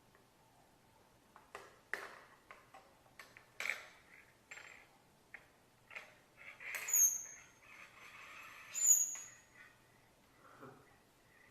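Parrot making scattered clicks and short chattering calls, then two short, high whistles about two seconds apart, each dropping slightly in pitch.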